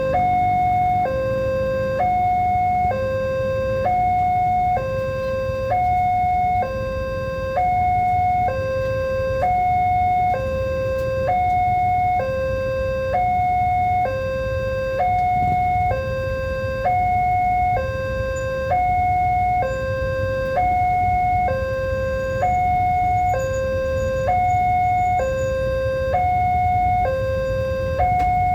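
Railway level-crossing warning alarm sounding continuously: an electronic two-tone signal alternating high and low, each tone about a second long. A steady low rumble runs underneath.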